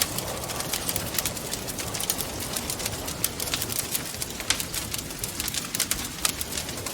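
Wood fire crackling in a fireplace, with many small irregular pops and snaps, over a steady soft rush of wind.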